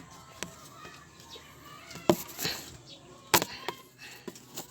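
Sharp metallic clinks and knocks of hand tools and engine parts as the alternator belt is worked off the engine, several irregular strikes with the loudest about three and a half seconds in.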